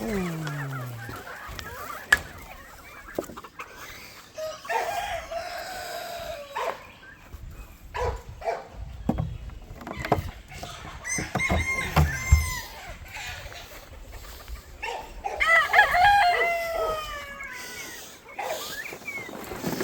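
Roosters crowing about three times, the last crow the longest and loudest, with hens clucking in between and a few sharp knocks.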